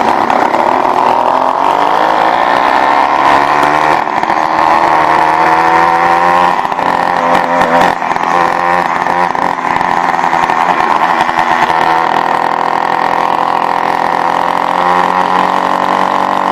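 Motorized bicycle's small two-stroke kit engine revving up as the bike pulls away, its pitch rising over the first few seconds, then running at steady high revs with small dips in speed.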